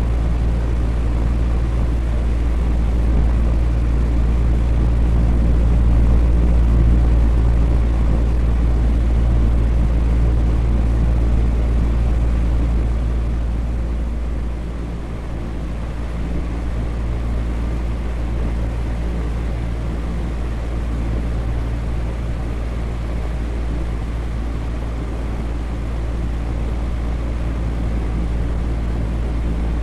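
Electric fan running steadily: a constant low whoosh of moving air with a deep hum underneath, briefly a little quieter about halfway through.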